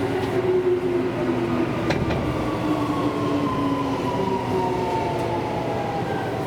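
Seibu Railway electric train running, heard from inside the car: steady rail and running noise with a motor whine whose tones fall slowly in pitch.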